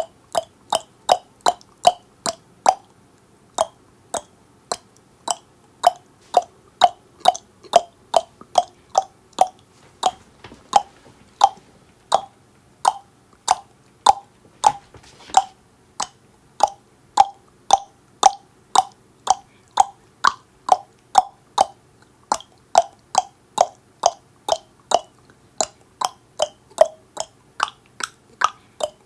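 Tongue clicks made in the mouth, sharp and evenly paced at about two a second, with a short pause about three seconds in.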